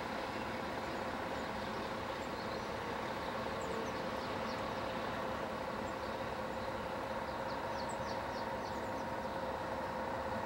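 Steady vehicle engine hum with a constant droning tone, even throughout.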